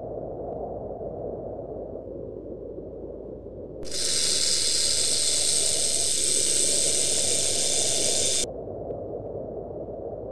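A snake hissing: one long, steady hiss that starts abruptly about four seconds in and cuts off about four and a half seconds later. A low, steady noise runs underneath throughout.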